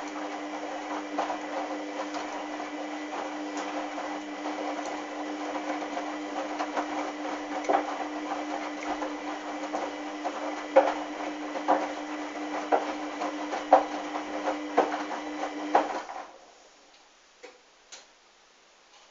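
Hoover washing machine running with a steady motor hum and irregular clicks and knocks that grow louder, cutting off abruptly about 16 seconds in; two faint clicks follow.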